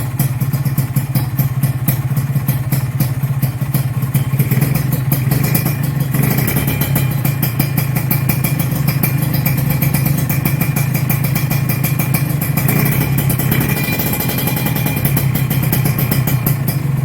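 Kawasaki Ninja RR two-stroke single-cylinder engine running steadily through an Arrow exhaust, with a fast, even firing pulse.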